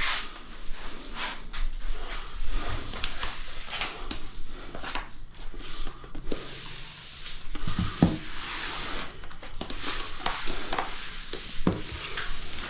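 Grout being worked over tiles with a float: an irregular scraping and rubbing, with a few knocks.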